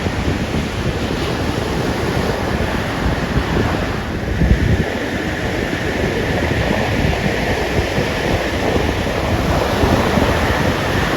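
Ocean surf coming in and breaking on the beach as a steady wash of waves, with wind buffeting the microphone.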